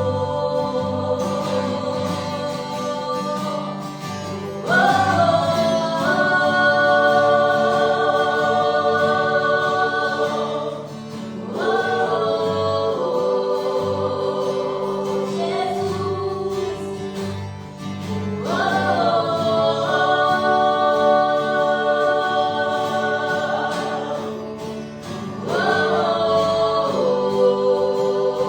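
Gospel worship music: voices singing long held notes over a steady low accompaniment, with a new phrase coming in about every seven seconds.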